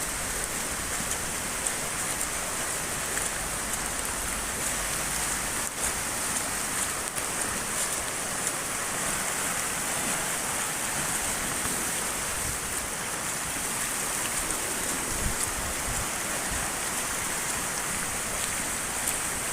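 Steady hiss of heavy rain, partly striking the phone's microphone, over the rush of a brook in flood.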